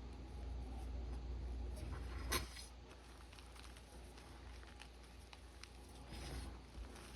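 Blue gym chalk crushed by hand, crumbling with soft scattered crackles, with a louder crunch about two and a half seconds in and another near the end.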